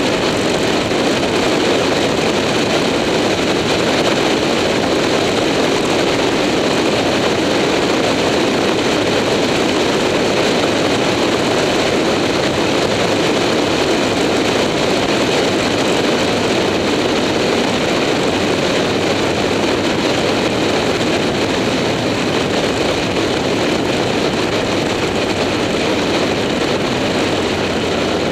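A motorcycle being ridden at a steady road speed: a loud, even rush of wind and road noise on the bike-mounted action camera's microphone, with the engine running underneath.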